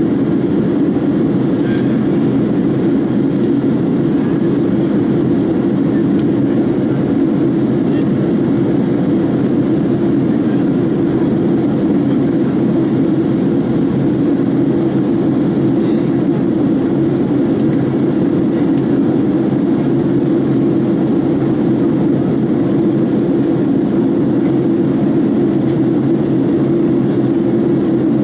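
Steady cabin roar of a Boeing 767-336(ER) airliner in its climb, with engine and airflow noise heard from a window seat by the wing.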